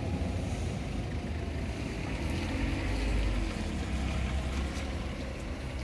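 Steady rain and wind buffeting the microphone: a low rumble with a hiss over it.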